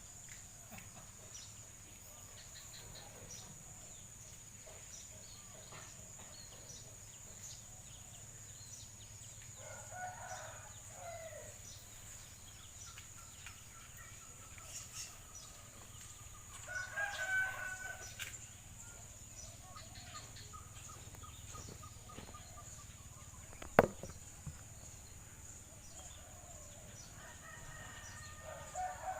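A few faint bird calls spaced out over a steady thin high whine, with fowl-like crowing among them, and one sharp click late on.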